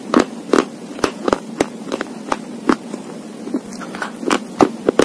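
Slate pencil being chewed and bitten close to the microphone: a run of sharp, dry crunching cracks, about three a second and unevenly spaced.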